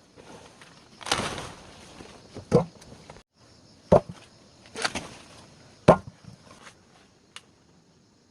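Three sharp chopping or knocking strikes, a second or two apart, with two longer rustling, scraping noises between them.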